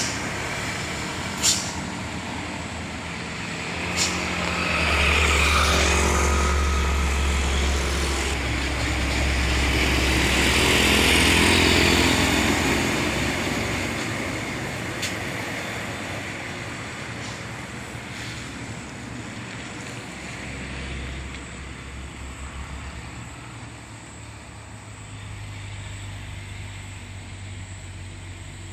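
Heavy diesel trucks driving past, their engine rumble and tyre noise swelling to a peak about twelve seconds in and then slowly fading away. A few sharp clicks sound in the first few seconds.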